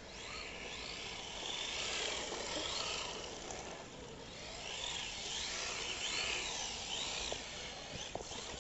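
HPI Maverick RC drift car's motor whining, its pitch rising and falling again and again as the throttle is worked through drifts.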